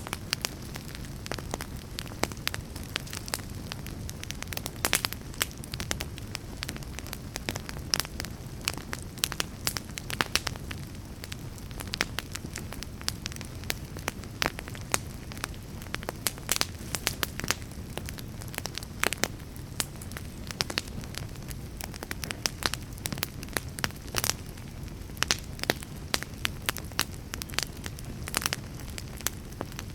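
A fire crackling, with frequent irregular sharp pops and snaps over a steady low rumble and hiss.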